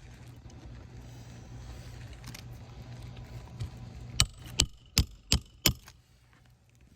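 Five quick, sharp knocks of a metal roofing tool on asphalt shingles, about two and a half a second, over a steady low hum.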